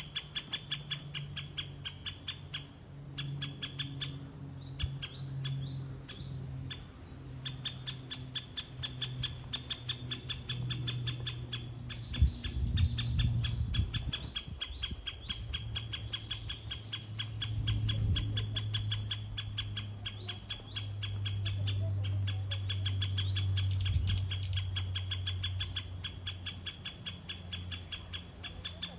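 Great spotted woodpecker (Hokkaido subspecies) calling: a steady, rapid series of short sharp notes, about five a second, kept up throughout, with another bird's sweeping chirps now and then over it.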